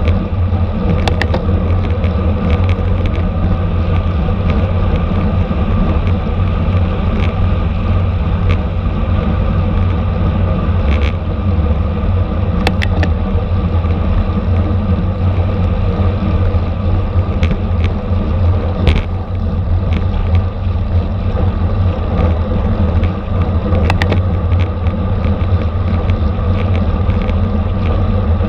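Steady wind and road rumble on a camera riding along in a bicycle criterium race, with scattered sharp clicks.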